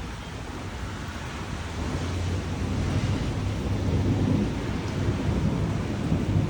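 Steady rain, with a low rumble swelling in about two seconds in and staying strong to the end.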